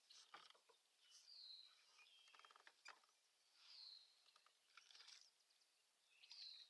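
Faint, short high chirps from a bird, three of them about two and a half seconds apart, with a few soft clicks in between.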